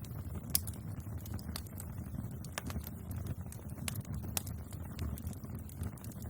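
Wood fire burning, with sharp, irregular crackles and pops over a steady low rumble of flames.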